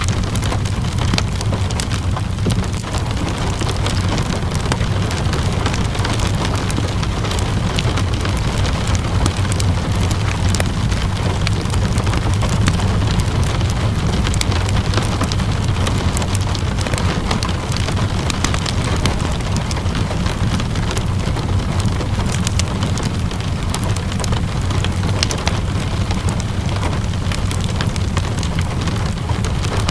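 Steady rainfall mixed with a fireplace's scattered crackles and pops, over a constant low rumble. Nothing changes or stands out.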